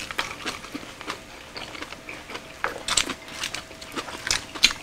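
Close-miked eating: chewing and mouth sounds of people eating grilled pork and side dishes, with scattered sharp clicks of chopsticks against plastic containers, a cluster of clicks near the end.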